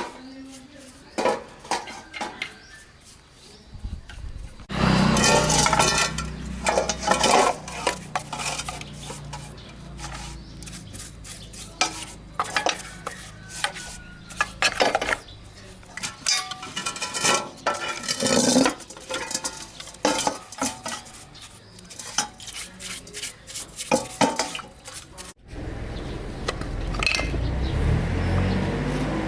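Metal engine parts and hand tools clinking, knocking and scraping against each other in many sharp strikes. A steady low hum runs under it from about five seconds in to about twelve, and a louder steady noise takes over near the end.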